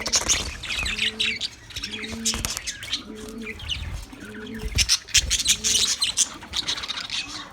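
Budgerigars chirping and chattering, with sharp squawks loudest about five seconds in. Underneath, a low, steady-pitched tone repeats about every half second.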